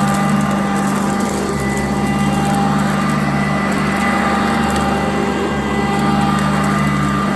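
Sanitaire upright vacuum cleaner running steadily, a constant motor hum and whine with no change in pitch.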